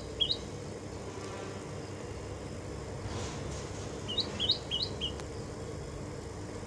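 A small bird chirping in quick runs of short rising notes, alternating between two pitches at about three or four notes a second: one run ends just after the start and another comes about four seconds in. A steady low hum runs underneath.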